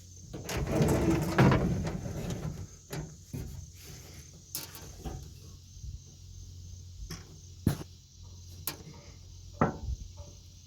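Scraping and rattling of metal parts being worked inside a truck door, followed by scattered sharp clicks and knocks as the window glass and regulator track are adjusted.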